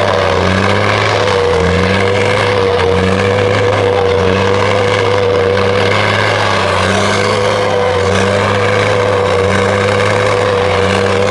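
A loud vehicle engine running steadily at an even pitch, with a held steady tone and a soft pulse about once a second.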